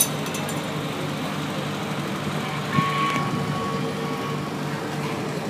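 Antique farm tractor engine running steadily at low speed, with a thin steady high tone for about a second and a half midway.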